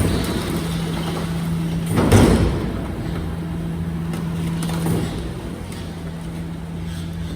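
Garbage truck working with a steady low hum, and a loud clattering bang about two seconds in, with a smaller knock near the end.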